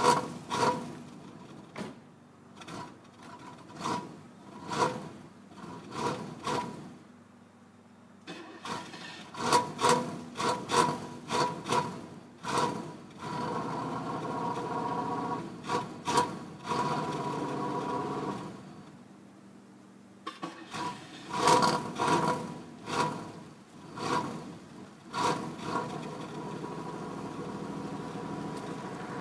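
1990 Cadillac DeVille V8 being cold-started: uneven bursts of cranking and sputtering, then a few seconds of running midway that die away. More cranking follows before it settles into a steady run near the end.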